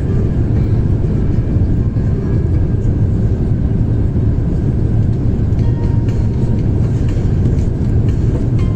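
Steady low roar of an Airbus A350-1000's cabin on approach: engine and airflow noise heard from a window seat.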